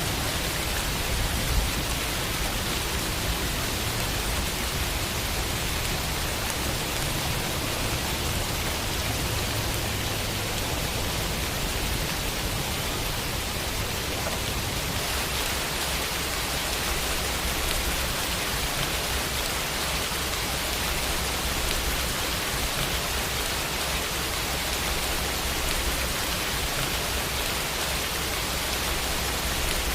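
Steady rainfall, a constant even hiss of rain without a break.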